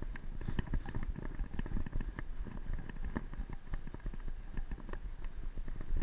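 Bicycle riding over rough ground: many irregular rattles and clicks over an uneven low rumble of wind on the microphone.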